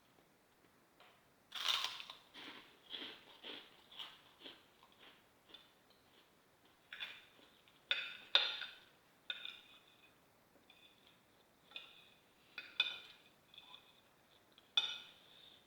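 Cutlery clinking and scraping against a plate during a meal: a string of short, irregular clinks, the loudest about a second and a half in, again around eight seconds and near the end.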